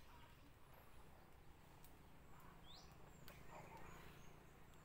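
Near silence with a faint outdoor hum, broken by a single short, high-pitched chirp of a bird about two and a half seconds in, and a few faint clicks and rustles.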